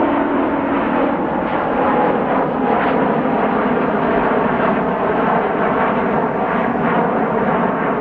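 A jet airliner's engines, loud and steady, as the aircraft passes close by.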